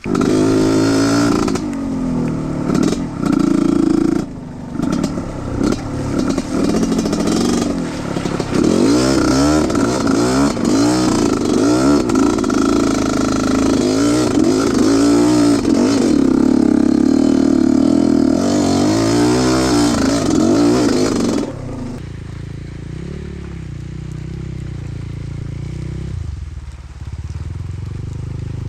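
Off-road trail motorcycle engine revving, its pitch rising and falling over and over, then dropping to a quieter, steadier running about 21 seconds in.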